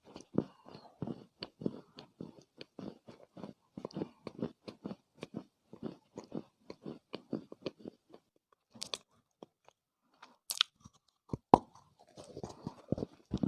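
Close-up chewing of crunchy chunks of Chinese loess (dried clay soil): a quick, dense run of crunches that thins about two-thirds of the way in to a few sharp cracks, the loudest near the end, before dense crunching starts again.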